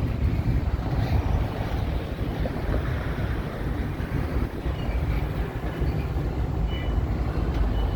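Double-stack intermodal freight cars rolling slowly past, a steady rumble of wheels on rail as the train slows. A faint thin squeal comes in near the end.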